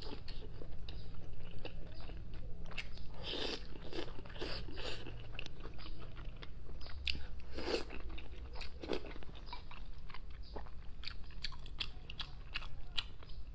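Close-miked eating of soft pig brain: wet chewing, smacking and mouth clicks, with a few longer wet bursts as each mouthful is worked.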